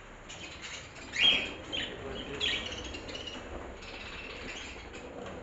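Small pet parrots, budgerigars and cockatiels, chirping in an aviary, with three loud sharp calls about one, two and two and a half seconds in over a steady background chatter.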